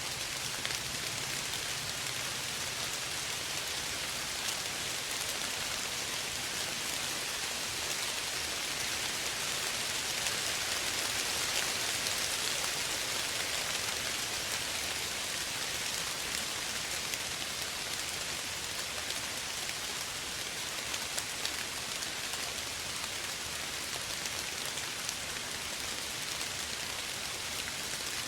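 Steady rain falling, an even hiss of drops on surfaces with scattered individual drop ticks, swelling slightly for a few seconds near the middle.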